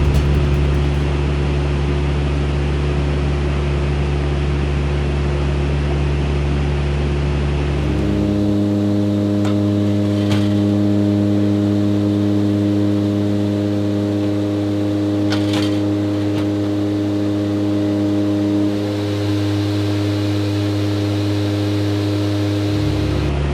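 AH-64 Apache helicopter's twin turboshaft engines and rotor giving a steady, humming drone. The pitch pattern changes abruptly about 8 seconds in, again near 19 seconds and just before the end.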